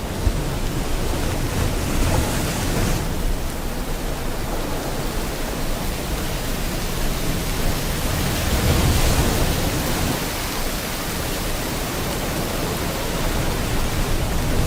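Rain and ocean surf together: a steady rushing hiss with a deep wash of breaking waves underneath that swells about two seconds and again about nine seconds in.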